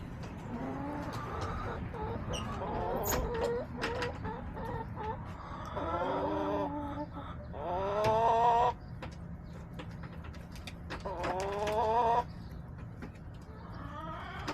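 Backyard hens clucking in a string of short calls, with two longer, louder drawn-out calls rising in pitch, about eight and eleven seconds in.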